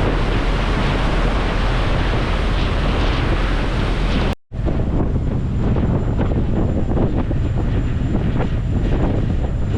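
Wind buffeting the microphone on a moving ferry, over a steady low rumble from the boat. The sound cuts out for an instant just under halfway through, then goes on a little duller.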